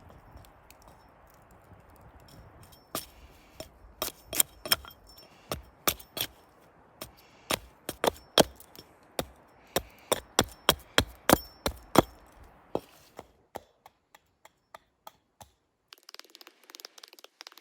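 A blunt axe chopping into a small block of wood to rough out a carving blank: a quick series of sharp strikes, about two a second, thinning to lighter taps near the end.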